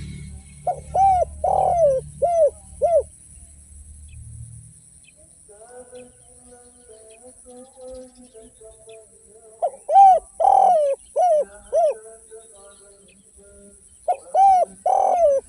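Spotted dove cooing: three phrases, each a run of about five short arched coos, near the start, around ten seconds in and near the end. Fainter chirps of other small birds come between the phrases.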